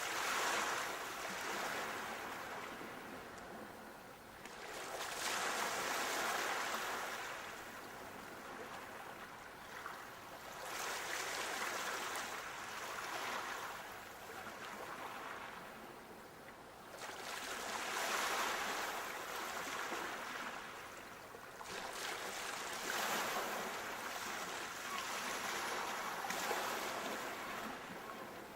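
Sea waves breaking and washing up the shore, the surf swelling and falling away about every five to six seconds.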